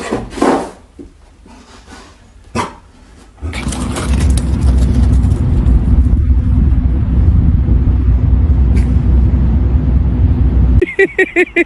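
A loud, steady low rumble without pitch for several seconds, then, near the end, a dog barking in a quick run of short, high yaps.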